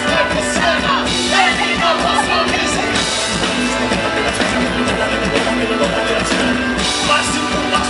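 Live rock music from a band playing on stage, with a steady beat.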